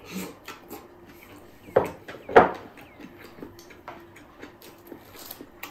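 Close-up chewing and lip-smacking of a mouthful of spicy noodle salad (kinilaw na pansit) with crunchy raw vegetables: a run of small wet clicks, with two louder smacks about two seconds in.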